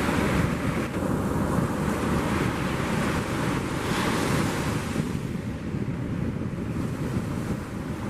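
Ocean surf breaking along the shore, with wind buffeting the microphone.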